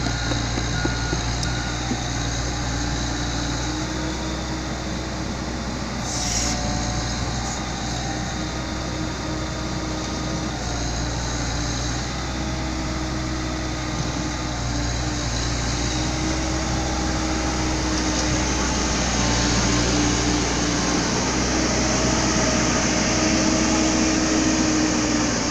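Komatsu PC70-8 excavator's diesel engine running under load as it tracks and works its hydraulics to climb onto a six-wheel dump truck, the engine note swelling and easing in stretches, with a backup alarm beeping.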